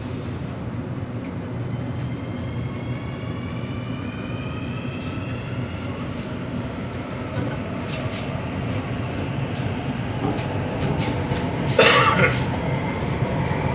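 Inside an AS-14 metro car in motion: a steady low running rumble, with the electric traction whine rising in pitch over the first few seconds as the train gathers speed. One short, loud burst cuts through near the end.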